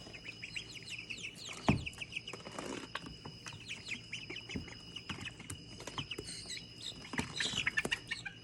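Penned birds giving many quick, high chirps and peeps, with scattered short taps and scratches, over a steady high-pitched whine.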